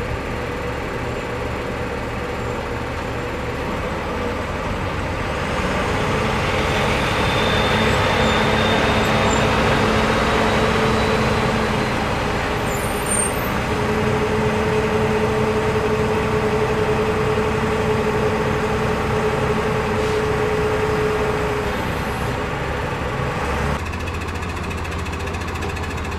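Motor vehicle engines running at a roadside, a steady engine drone with traffic noise. It grows louder about six seconds in, stays up for around fifteen seconds, then eases off near the end.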